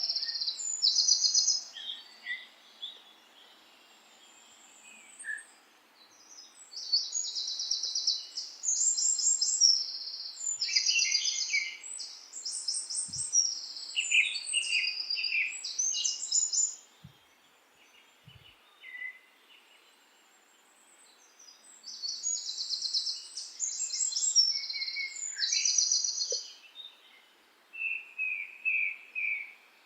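Birds singing in bouts of rapid, high chirping phrases, with quiet gaps of a few seconds between bouts, over a faint steady hiss.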